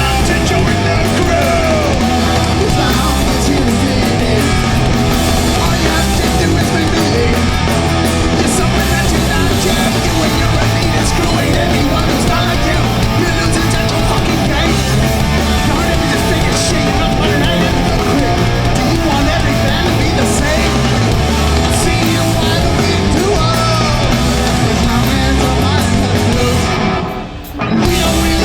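Hardcore punk band playing live and loud: distorted electric guitars, bass and drums. About a second before the end the music drops out briefly, then the band crashes back in.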